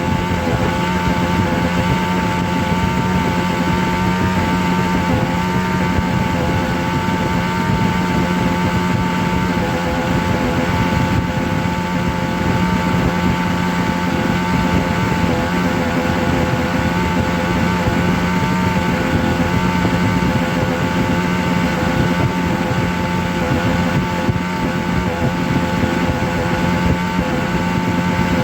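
A steady motor drone: a constant low hum with a higher whine above it, unchanging in pitch and level throughout.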